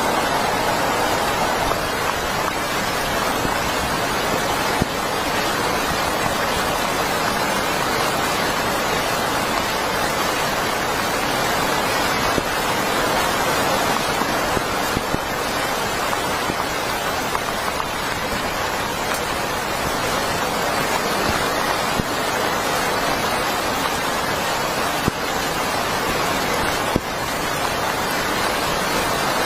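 Heavy rain falling steadily, an even dense hiss with a few brief small taps.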